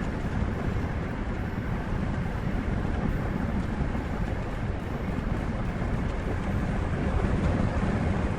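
Heavy vehicle running with a loud, steady rumble, mixed with wind noise on the microphone.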